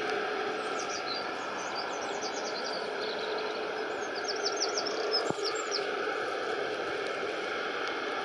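A small bird chirping in quick runs of short, high notes over a steady hiss of background noise.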